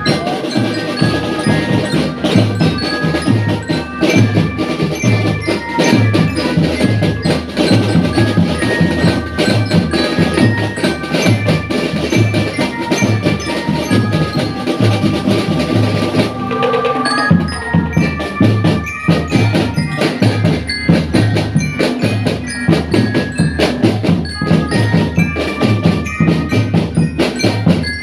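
School marching drum band playing: drums beating a steady, even rhythm under a melody on bell-lyres (marching glockenspiels). The drums drop out for about a second about two-thirds of the way through, then come back in.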